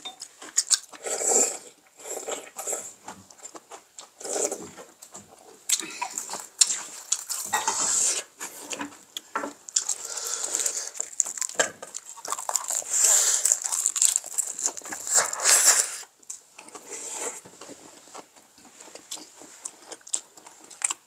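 Close-miked eating sounds: chewing and crunching of food in irregular bouts, with soft clicks of spoons and chopsticks.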